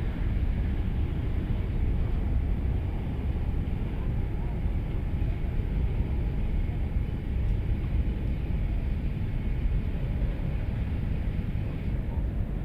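Wind buffeting the microphone: a steady low rumble with no distinct sounds standing out.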